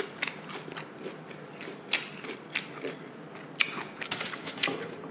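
Close-miked mouth sounds of eating: chewing with wet clicks and lip smacks, a string of irregular sharp clicks.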